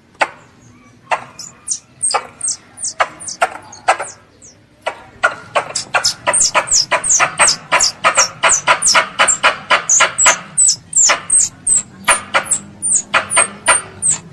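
Squirrel's sharp, high chipping calls, the call of a young squirrel for its mother. Each call is a click followed by a quick falling whistle. They come a few at a time at first, then, from about five seconds in, in a steady run of about three a second.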